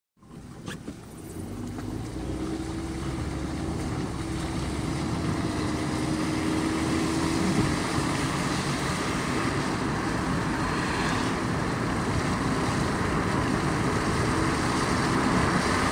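A car driving, with steady road and engine noise that grows louder over the first few seconds and then holds.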